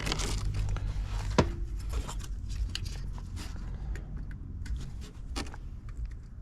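Scattered clicks, scrapes and rubbing of things being handled, with one sharper click about a second and a half in, over a low steady hum.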